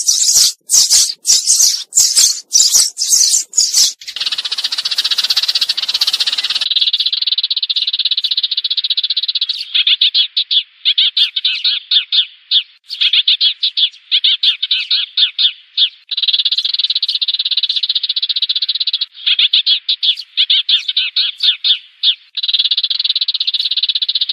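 Sparrows chirping: a lure recording of flock calls. Sharp separate chirps come several a second at first, then after about six seconds they give way to a dense, continuous chattering in quick runs, thinner in tone.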